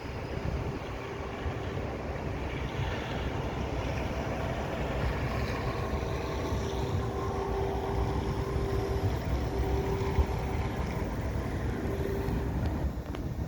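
Street traffic rumble with wind buffeting the microphone; a steady mid-pitched whine comes and goes through the second half, as a vehicle passes.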